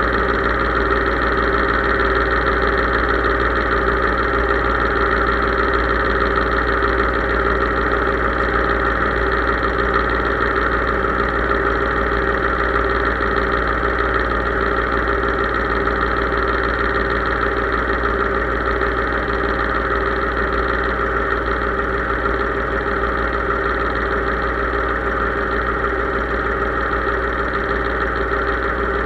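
Case IH 3220 tractor's diesel engine running steadily at a constant speed.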